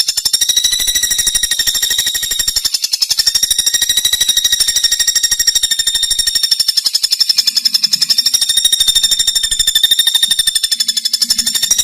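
Pelatuk bawang woodpecker calling in a fast, continuous high-pitched rattling trill of about ten notes a second, running on without a break.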